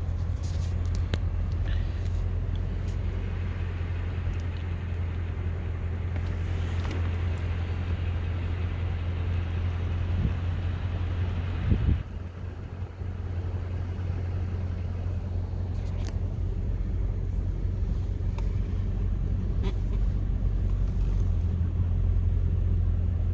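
Car engine and road noise heard from inside the cabin during a slow drive, a steady low rumble. A brief knock about halfway through, after which it drops quieter for a moment.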